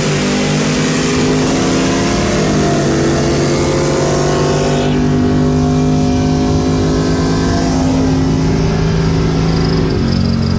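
Vehicle engine held at steady high revs, with a loud hiss over it that cuts off about halfway through; the revs drop near the end.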